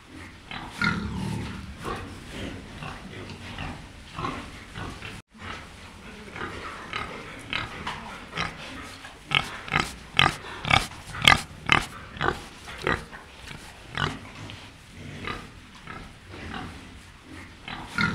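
Pigs grunting and snuffling, the black pig's snout working in the dirt, with a quick run of short sharp grunts or snorts, about four a second, in the middle.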